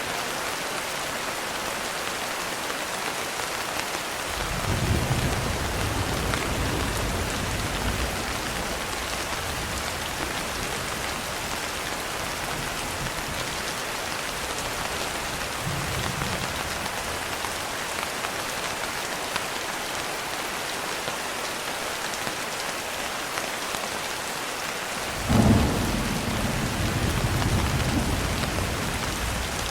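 Steady rain with thunder rolling: a low rumble about four seconds in that lasts a few seconds, a faint one midway, and a louder one near the end that opens with a sharp clap.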